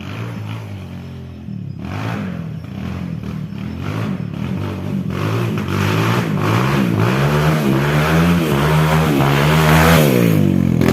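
Honda XR200 motorcycle's single-cylinder four-stroke engine revving up and down over and over, growing steadily louder.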